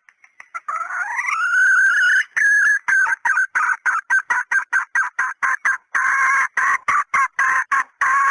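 Red junglefowl hen calling as a hunter's lure: a rising squawk, then a fast run of short clucking calls, about four or five a second, that cuts off suddenly near the end.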